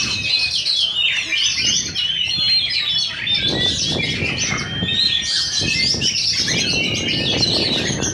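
Several oriental magpie-robins (kacer) singing at once in a contest, a dense tangle of fast chirps, whistles and trills. Low background noise joins about three and a half seconds in.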